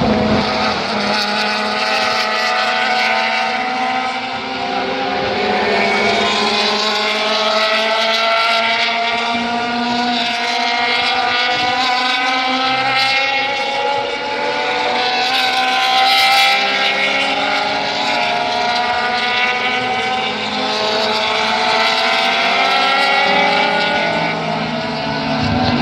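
Several Formula 5000 racing cars' 5-litre V8 engines running loud together, their exhaust notes overlapping and slowly rising and falling in pitch.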